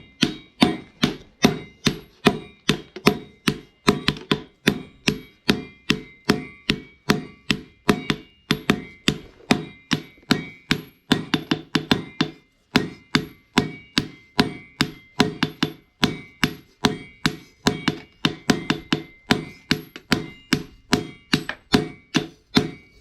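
Steady hand-hammer blows on steel over an anvil, about two to three a second, each with a short metallic ring, with a brief break about halfway through: the chainsaw-bar steel being hammered into a cleaver blade.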